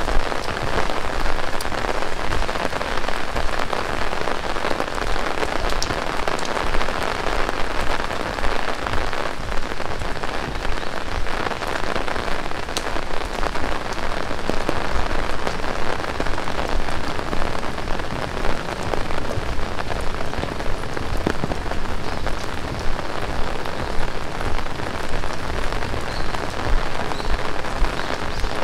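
Heavy rain falling steadily: a dense, even hiss of rain on surfaces, with scattered individual drops ticking through it.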